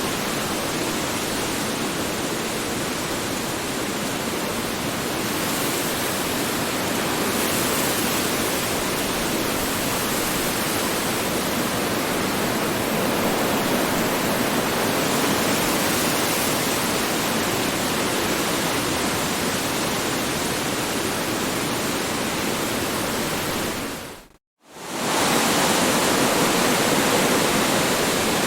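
Strong wind blowing as a steady, even rushing noise. About three-quarters of the way through it cuts out for a split second, then comes straight back a little louder.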